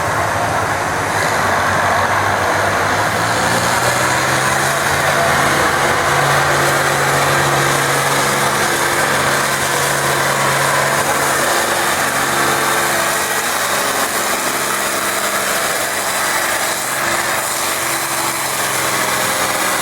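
A tractor engine running steadily at one speed, with no revving, against loud outdoor background noise.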